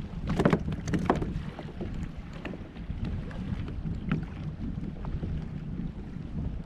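Wind on the microphone and choppy water against a fishing kayak's hull, with a few sharp knocks and clicks, the loudest about half a second and a second in.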